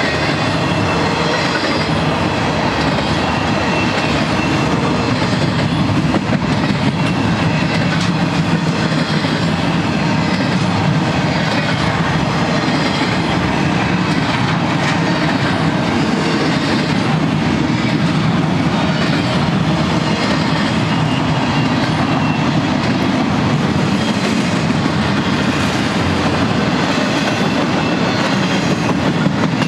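Empty double-stack well cars of a freight train rolling past: a steady rumble of steel wheels on rail, with scattered clicks from the wheels.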